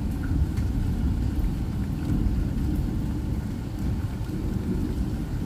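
Rain falling steadily in a storm, a constant rushing noise with a deep rumble underneath and a few faint ticks of drops.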